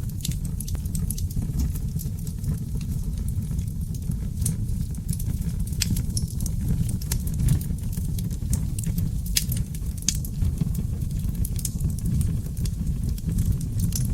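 Wood fire burning oak logs in a fireplace: a steady low rumble of flames with frequent sharp crackles and pops, several a second.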